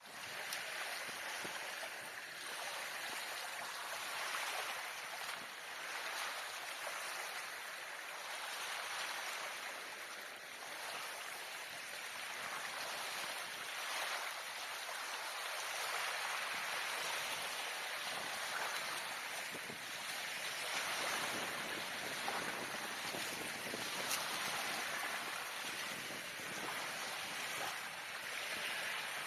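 Steady rushing of water, with slight swells in level.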